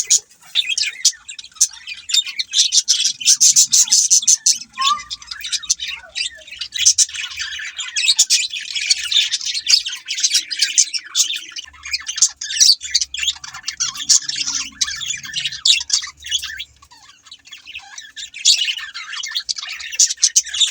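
A flock of budgerigars chattering with dense, rapid high chirps and squawks, easing off briefly a few seconds before the end.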